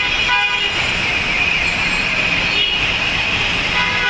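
Steady, loud hiss of heavy rain with city traffic, and a short vehicle horn toot about half a second in.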